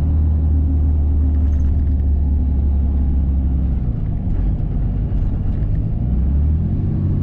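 Duramax diesel pickup engine running under way, a steady low drone. Its tone changes about four seconds in and again near the end as the engine speed changes.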